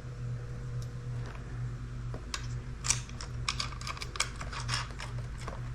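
Irregular small clicks and taps of stainless steel washers and nuts being handled and threaded by hand onto carriage bolts, over a steady low hum.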